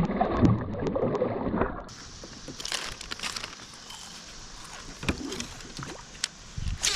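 Water sloshing around a kayak, with scattered sharp clicks and knocks from gear being handled on board.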